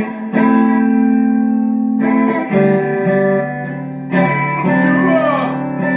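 Guitar music playing an instrumental break in a gospel song: sustained chords that change every second or two.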